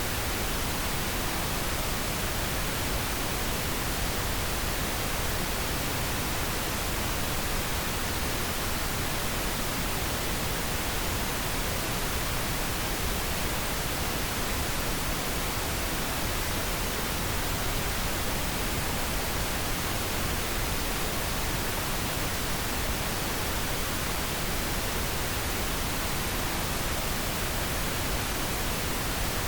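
Steady pink noise: an even, unchanging hiss spread across the whole range from deep rumble to high hiss.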